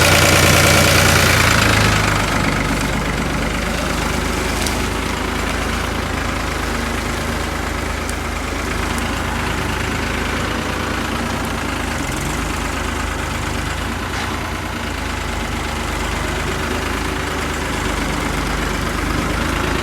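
New Holland 3630 tractor's diesel engine running steadily, a little louder for the first couple of seconds and then settling to an even hum.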